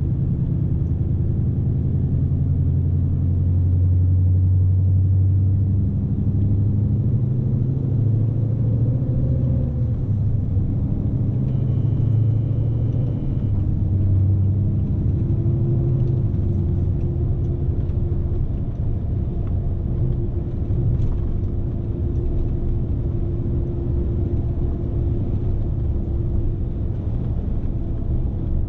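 Scania S520's V8 diesel engine running under load with road rumble, heard inside the truck's cab. The engine note is strong for the first half and eases after about 16 seconds, leaving a steady whine. A brief high beep sounds about 12 seconds in.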